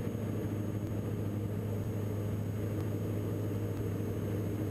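Engines and propellers of a Diamond DA42 NG twin droning steadily in the cockpit, a constant low hum with no change in pitch.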